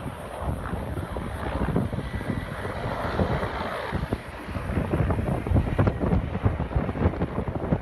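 Wind gusting and buffeting the microphone over a steady rushing noise, with many short crackles throughout.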